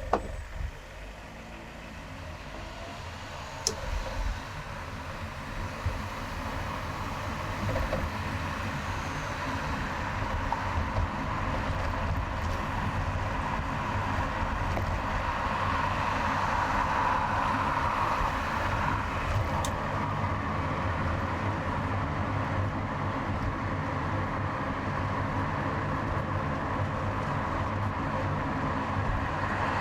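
A car driving on a highway: steady engine hum and tyre-and-road noise that build up over the first several seconds as it gathers speed, then hold steady. A few sharp clicks come near the start and at about four and six seconds in.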